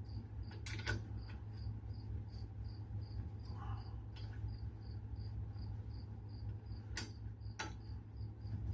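Occasional sharp metallic clinks and knocks from tools at work under a truck, the loudest about seven seconds in. Underneath is a steady low hum and a high cricket-like chirp repeating about three times a second.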